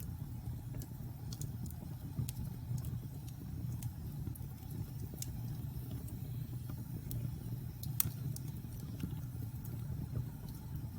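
Wood fire burning in a fireplace: a steady low rumble of flames with scattered sharp crackles and pops, one louder pop about eight seconds in.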